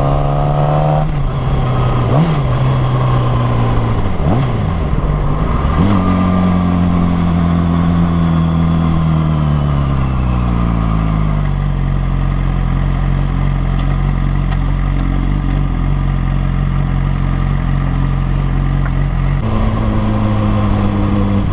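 Yamaha R6's inline-four engine under way: its note rises and drops several times in the first few seconds, then slowly falls in pitch as it slows and settles to a steady low running note.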